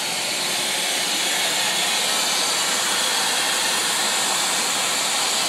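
Water spraying under pressure from a broken water pipe, a steady hiss.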